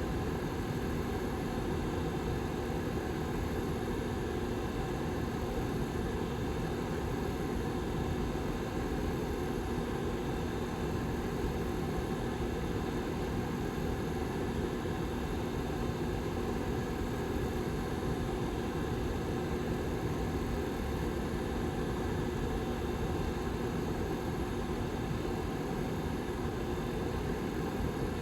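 The back fan of a Lasko Model 755320 ceramic tower heater running steadily: an even rush of air with a steady low hum under it.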